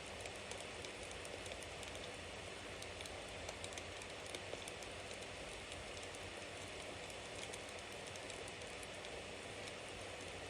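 Bonfire burning: a steady hiss of flames with many small crackles and pops from the burning wood.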